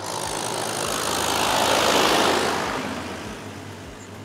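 A tractor pulling a loaded sand trailer passes close by. The rush of its engine and tyres swells to a peak about two seconds in, then fades as it moves away, over a steady low engine hum.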